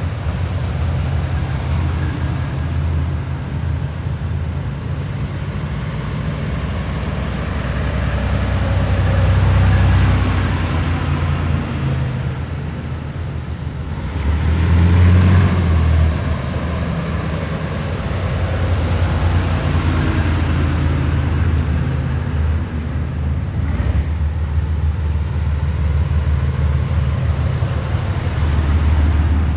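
A column of heavy military vehicles driving past with a continuous low engine rumble, swelling as vehicles come closest about a third of the way in and again about halfway through.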